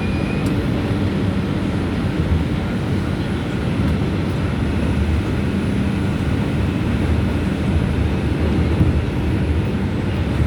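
R142 subway train running, a steady low rumble of wheels on rail and traction motors.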